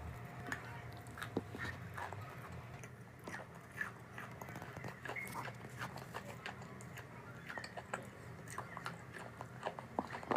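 Close-up crunching of chalk being bitten and chewed: a run of crisp, irregular crunches.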